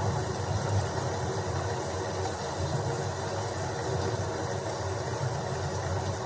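Steady rain falling, an even hiss over a low, continuous rumble.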